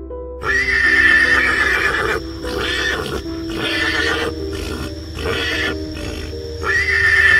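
Harsh animal calls over a steady background music drone: one long call from about half a second in, several shorter calls after it, and another loud call near the end.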